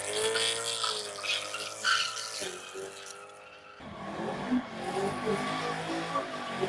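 A sports car's engine held at high revs with tyre squeal, as in a burnout. It breaks off about two and a half seconds in, leaving a lower, uneven rumble of engines.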